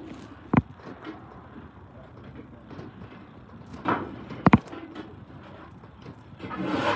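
Steel clanks and scraping in a garbage truck's body during a clean-out behind the packer blade: a sharp knock under a second in, a quick double clank about four and a half seconds in, and scraping swells around four seconds and near the end.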